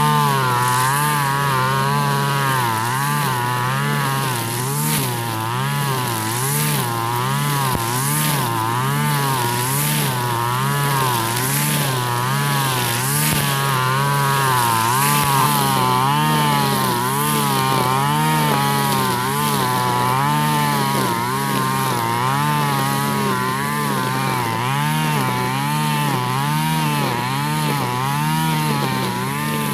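Husqvarna 542RBS two-stroke backpack brush cutter spinning nylon trimmer line at high revs. Its engine pitch swings up and down about once a second as the line is worked through grass.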